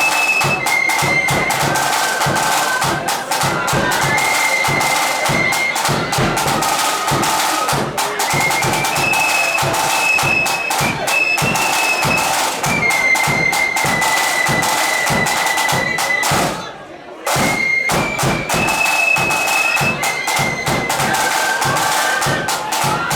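Flute band playing: flutes in unison carry the melody over rapid snare drumming and bass drum. The band breaks off briefly about seventeen seconds in, then starts again.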